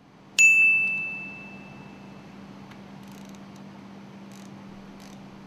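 A single sharp metal-on-metal clang that rings for about two seconds as it fades, followed by a steady low hum and a few faint clicks.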